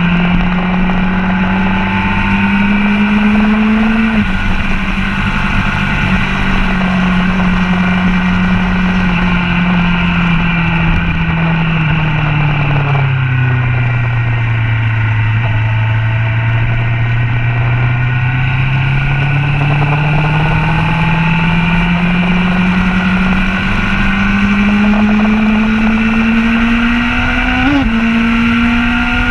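Motorcycle engine on a track lap with wind rushing over the bike: the engine note drops suddenly about four seconds in, then falls slowly as the bike slows for a corner, holds low, and climbs steadily again as the throttle is picked up out of the corner, with a brief change in the note near the end.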